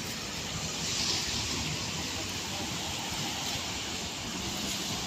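Steady hiss of a rainy city street: rain and traffic on wet roads, with no single sound standing out.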